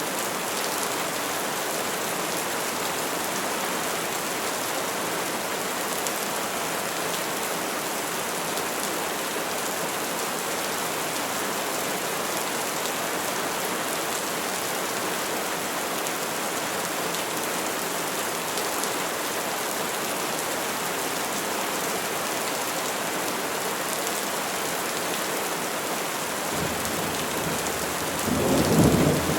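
Steady, even rainfall pattering on trees and leaves. Near the end a low rumble of thunder begins to build.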